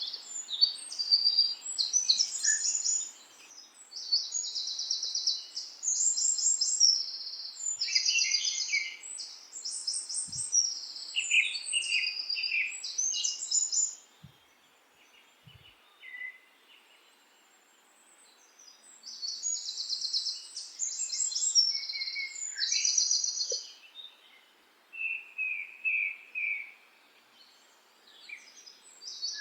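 Songbirds singing: bursts of high, fast trills and chirps, with a quiet gap of several seconds in the middle.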